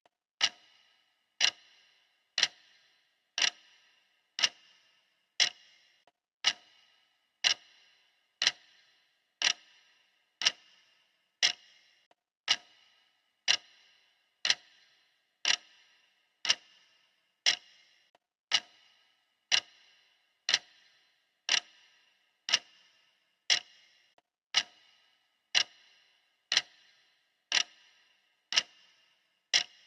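Clock ticking steadily, one sharp tick a second, each with a brief ringing tail.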